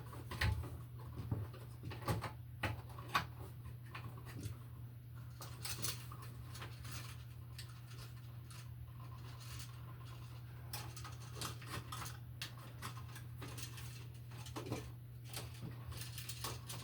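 Electrical wires being bent and folded into a metal box behind a GFCI receptacle: scattered clicks, scrapes and rustles of stiff wire and the device knocking against the box, over a steady low hum.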